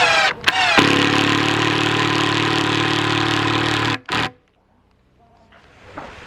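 Electric power tool motor whining up in pitch, running steadily at full speed for about three seconds, then cutting off abruptly about four seconds in; a fainter steady noise follows near the end.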